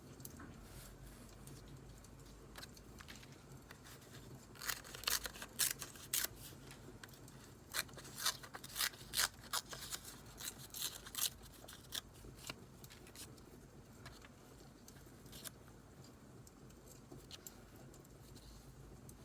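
Scissors snipping paper in a run of sharp cuts through the middle, over faint scattered crackling of burning firewood.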